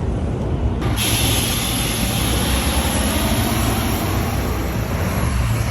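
City traffic rumble; about a second in, a loud, high hiss with a thin whistling tone starts suddenly and holds.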